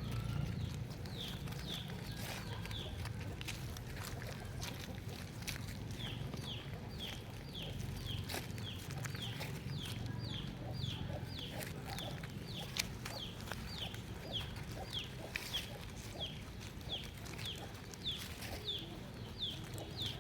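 A bird peeping over and over: short high notes, each falling in pitch, about two a second, over a low steady rumble with scattered clicks.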